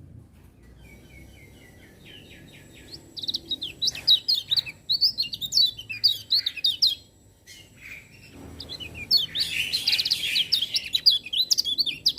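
Kecial kuning (lemon-bellied white-eye) singing in fast, high twittering phrases, starting softly with a few repeated notes. The song breaks off about seven seconds in, then resumes louder with a hissy wash under the notes near the end.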